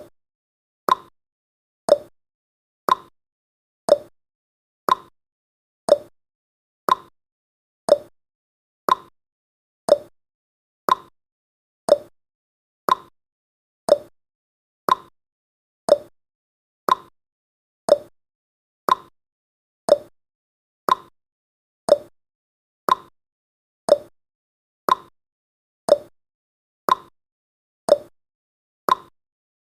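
Countdown timer tick sound effect: a short click once a second, each dying away quickly, in a steady, even rhythm.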